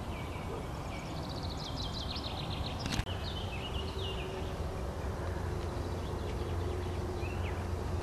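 Small birds singing: repeated short falling chirps and a fast trill, over a low steady rumble. A single sharp click about three seconds in, and a faint steady hum joins after it.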